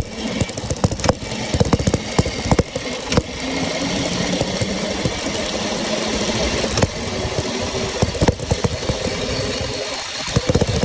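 Modded Razor MX350 electric dirt bike running: a steady electric motor whine with frequent sharp rattles and knocks.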